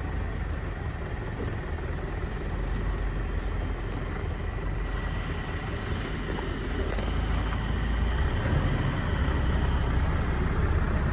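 Steady low rumble of an idling vehicle engine, getting a little louder about eight seconds in.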